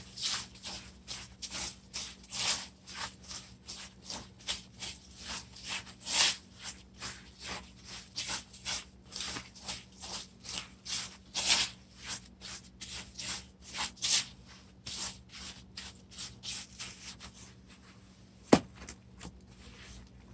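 Wet cement patching mortar being mixed by hand: rapid scraping strokes, about four a second, that ease off near the end, then a single sharp knock.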